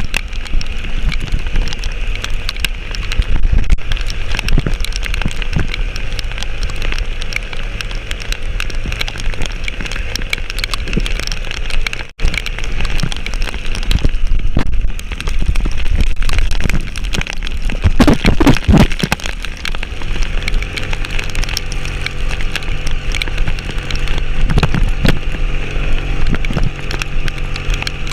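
A vehicle driving on a mountain road in heavy rain, its engine running under a steady hiss of rain. The sound drops out for an instant about twelve seconds in.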